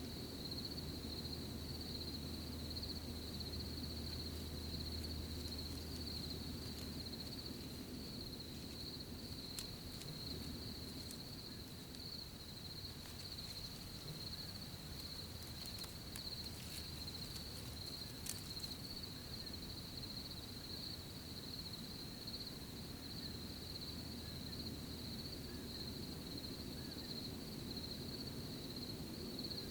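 A continuous, steady chorus of crickets trilling at one high pitch over a low, even outdoor rustle, with a few faint clicks in the middle.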